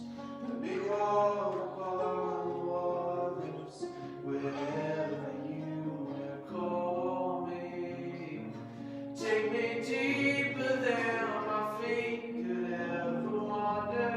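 Church worship song: voices singing held, gliding notes over steady instrumental accompaniment.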